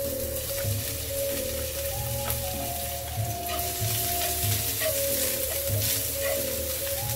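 Chopped leek sizzling steadily in hot oil in a nonstick wok, with a few light scrapes and taps as a spatula stir-fries it.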